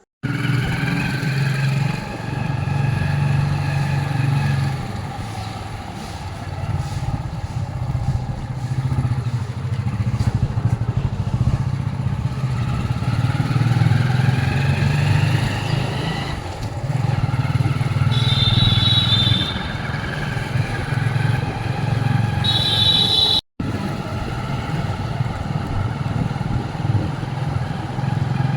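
A motor vehicle's engine running steadily, its speed rising and falling a little, with a brief break about two-thirds of the way through.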